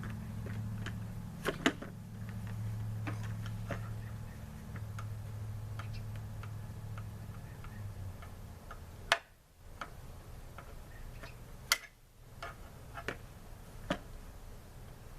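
Scattered sharp clicks and taps of hands and tools working on a lawnmower's fuel line and gas tank, a few of them louder, over a low steady hum that stops about eight seconds in.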